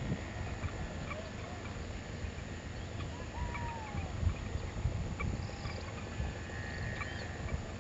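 Birds calling with short, scattered chirps and a curved falling call about three seconds in, over a steady low rumble.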